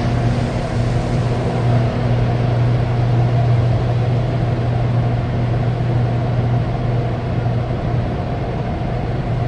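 Car wash machinery running: a steady low hum with an even rushing hiss over it.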